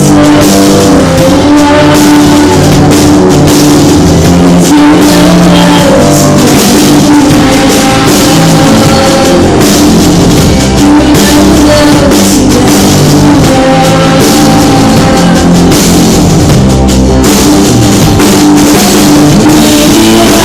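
Live band playing an instrumental passage of a song, drum kit and guitar to the fore, with no singing. Recorded loud and distorted on a phone.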